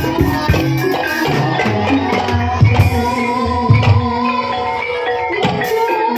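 Live Javanese ebeg gamelan music: hand-drum strokes over ringing metallophone notes.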